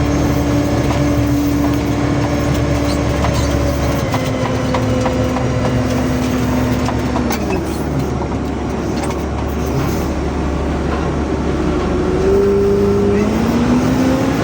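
An engine running steadily. Its pitch steps down about four seconds in, falls away around seven seconds, and climbs again near the end as it speeds up.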